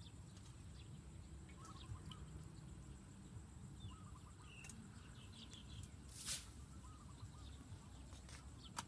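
Faint rural ambience: small birds chirping now and then over a low rumble, with one sharp tap about six seconds in.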